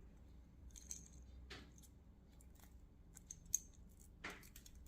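Faint scattered clicks and crackles from brittle, sun-aged wire insulation inside a car headlight as the wires are handled and the insulation cracks and flakes off. A few sharper ticks stand out, about a second and a half in, three and a half seconds in and near the end.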